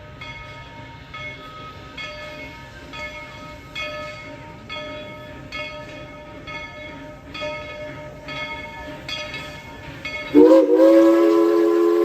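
Tweetsie Railroad's steam locomotive #190 rings its bell over and over, about one and a half strokes a second. About ten seconds in, its steam whistle comes in much louder, bending up at the start and then holding a steady chord of several notes.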